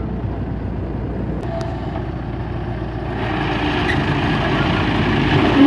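Diesel engine of heavy construction machinery running steadily, growing louder about three seconds in, as a JCB backhoe loader pushes a road roller.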